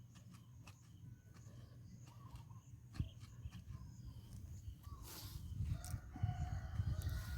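Chickens calling, with a rooster crowing faintly in the second half, over a steady low rumble. A single sharp knock about three seconds in.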